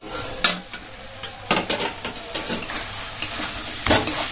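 Chicken and masala frying in a kadai with a steady sizzle, and three sharp knocks against the pan.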